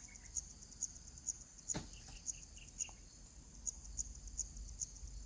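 Insects trilling: a steady high-pitched buzz that pulses about twice a second. A few faint short chirps come in the middle, and there is a single sharp click just under two seconds in.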